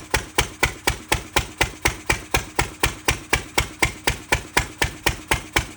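Ruston 6PS stationary engine running steadily, an even beat of sharp exhaust knocks at about four a second.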